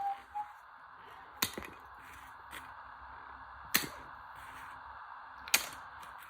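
Tumble dryer being spun fast by a washing machine motor, a steady whir broken by three sharp bangs about two seconds apart.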